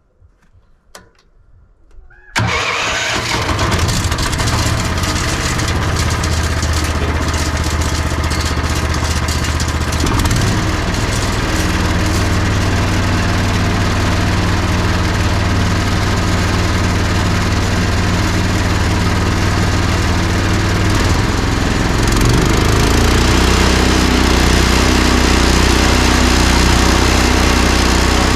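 The 420cc single-cylinder gas engine of a Powerhorse 4-inch chipper shredder starting about two seconds in, on choke at slow idle, then running steadily. Near the end it runs a little louder.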